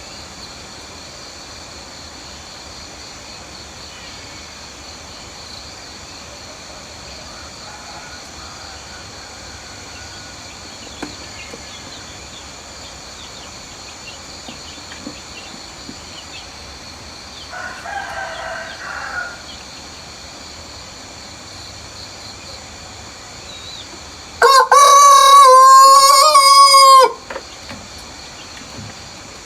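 A rooster crows once, loud, for about two and a half seconds near the end. A fainter, shorter call comes about eighteen seconds in, over a steady background of birds and insects.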